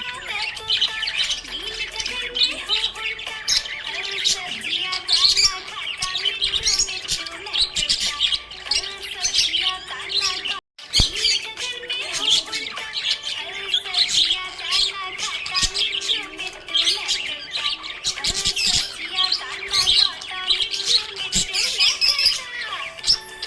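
Budgerigars chirping and chattering in a dense stream of quick, high chirps and squawks. The sound drops out for an instant about ten seconds in.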